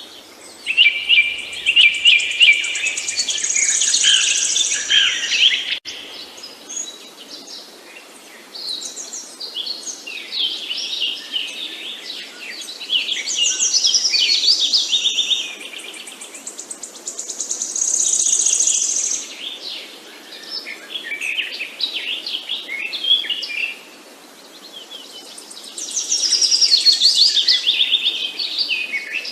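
Birds chirping and singing: phrases of rapid, high, twittering notes a few seconds long, often overlapping, with brief quieter lulls between them, over a faint background hiss.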